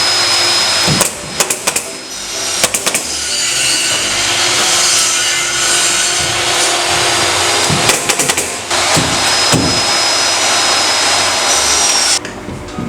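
An air compressor runs steadily with a thin high whine and cuts off suddenly near the end. Over it come three quick clusters of sharp pneumatic nail gun shots, nailing wooden ceiling joists in place.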